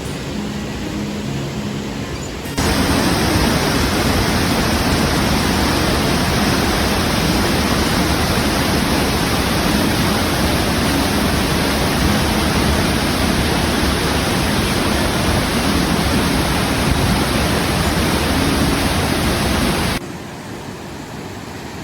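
Rushing creek water in spring high flow, a loud steady roar of noise. It jumps up sharply a couple of seconds in and drops off suddenly near the end.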